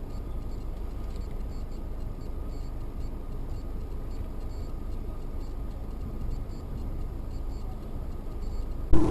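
Steady low road and engine rumble of a car driving, picked up by a dashcam, with faint light ticks through it. Near the end it jumps abruptly to a louder rumble.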